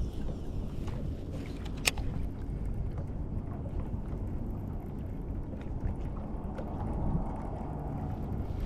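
Wind buffeting the microphone in gusty weather, a steady low rumble, with one sharp click about two seconds in.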